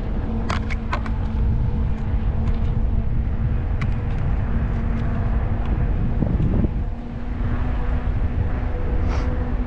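Wind rumbling on the microphone of a moving e-bike, over a steady electric motor whine that drops out for about a second some six seconds in, with a few faint clicks.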